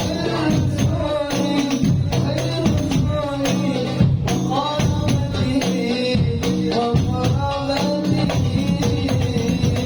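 Hadroh-style Islamic devotional music: voices sing a bending Arabic melody over a fast, steady beat of rebana frame drums with jingles.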